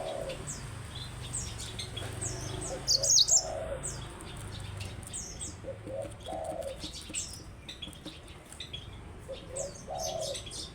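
Yellow-fronted canary chirping and singing in short high notes and trills, loudest as a quick burst about three seconds in. A dove coos low in the background, its phrase repeating about every three seconds.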